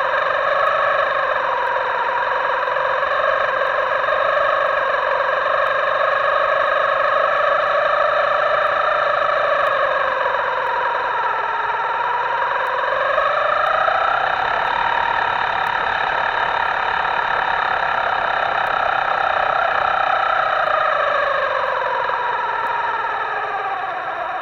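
Electric motor of a radio-controlled boat whining steadily, its pitch sinking and rising slowly as the throttle changes, dipping about halfway through and sagging again near the end.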